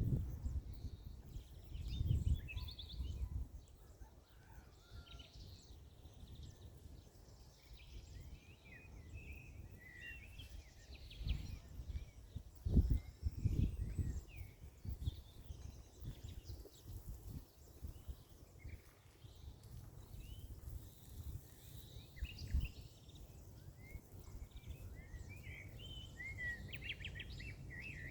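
Small birds chirping and singing in many short calls throughout, over low rumbling bursts on the microphone that are loudest about two seconds in and again around twelve to fourteen seconds.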